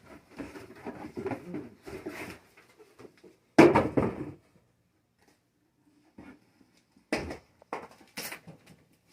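Cardboard packing boxes being pulled out of a shipping carton and handled: irregular scraping and rustling, with a loud knock of cardboard about three and a half seconds in and a few shorter knocks near the end.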